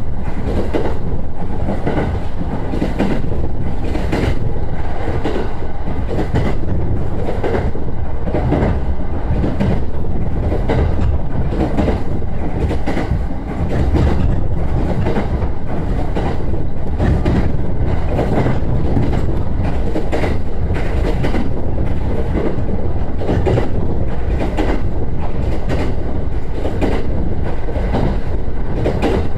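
JR East E129 series electric train running along the line: a steady loud rumble with frequent clicks of the wheels over the track.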